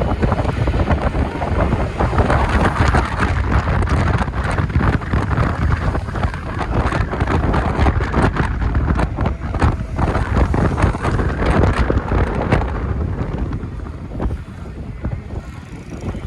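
Wind buffeting the microphone of a moving electric scooter, a loud, uneven rumble with gusty swells, mixed with road noise. It eases and gets quieter near the end.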